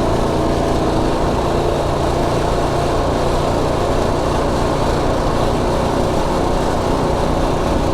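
Predator 212 Ghost single-cylinder four-stroke engine running steadily under load while riding, sounding smooth.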